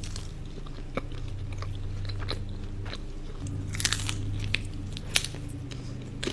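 A person biting into and chewing a soft, doughy Ferrero Rocher cookie, with a few sharp crunches spread through the chewing.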